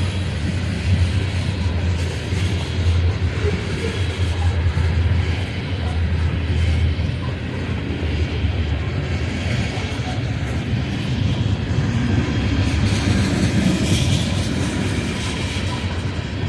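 Freight train passing at the rear, its EMD SD70MAC distributed-power diesel locomotive running with a steady low drone under the continuous rumble and clicking of steel wheels on the rails.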